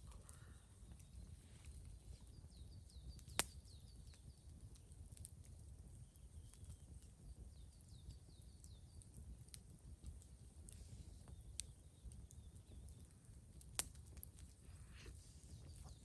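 Quiet outdoor ambience with a low rumble, faint high chirps in short runs, and two sharp clicks, one about three seconds in and one near the end.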